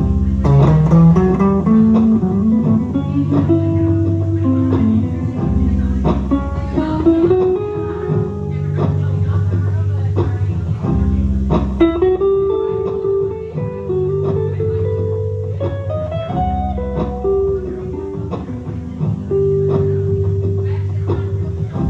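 Guitar music: plucked guitar notes over steady low bass notes, with a held melody line above that glides between pitches.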